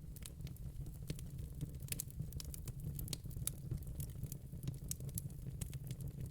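Wood fire in a fire pit crackling, with frequent irregular sharp pops and snaps over a steady low rumble.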